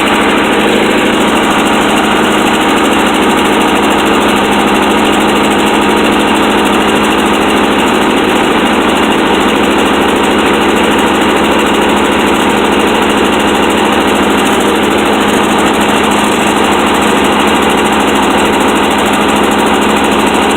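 Engine idling steadily just after a cold start on a cold day.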